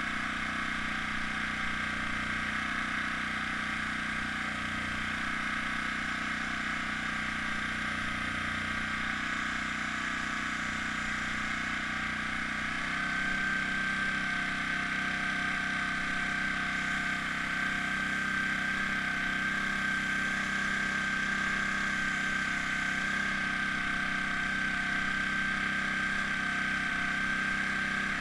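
Air compressor for an airbrush running steadily with a constant hum. About thirteen seconds in, its tone shifts and it grows slightly louder.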